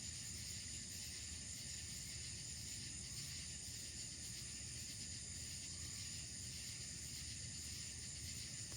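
A steady chorus of night insects, a high-pitched unbroken trill that holds even throughout.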